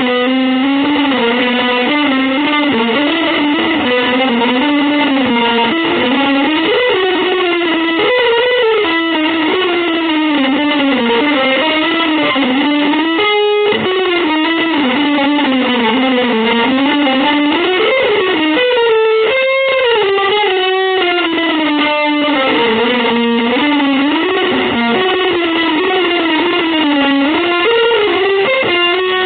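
Electric guitar with effects playing a winding single-note lead line in a jazz and avant-garde vein, sliding between notes. The line runs on almost without pause, with brief breaks about halfway and two-thirds through.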